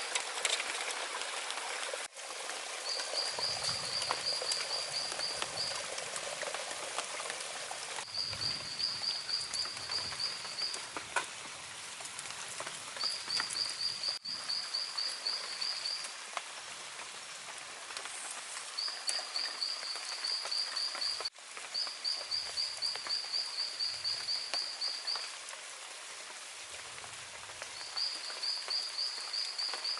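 A high-pitched animal call, a fast pulsing trill lasting two to three seconds, repeats every few seconds over a steady rushing hiss of outdoor ambience.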